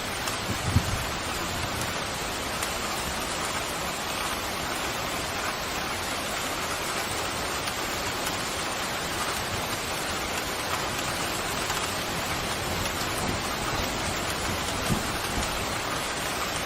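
Steady pouring rain, an even hiss with no let-up, with a brief low thump about a second in.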